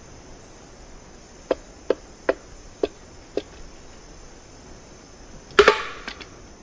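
Pale-billed woodpecker tapping on wood: five light, unevenly spaced taps, then about two seconds later a much louder, ringing double strike. A steady, high insect trill runs underneath.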